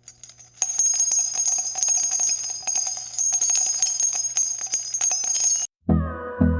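Jingling bells shimmering with many small rapid clicks for about five seconds, then cut off abruptly. Just before the end, electronic dance music starts with a steady pounding kick drum.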